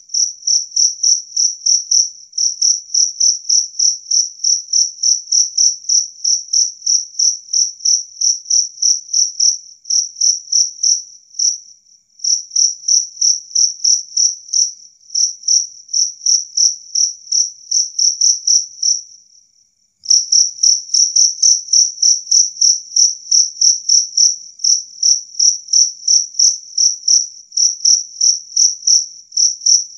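A jangkrik kalung (two-spotted field cricket) calling: a loud, clear, high-pitched string of chirps, about three a second, breaking off briefly about two-thirds of the way through before resuming.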